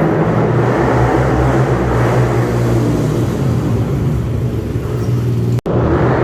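Dirt bike and ATV engines running loudly and steadily, with a momentary dropout near the end.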